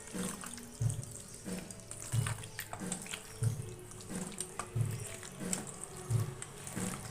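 Wet squelching and slapping of raw chicken pieces being mixed by hand in a spice and oil marinade, over background music with a steady beat.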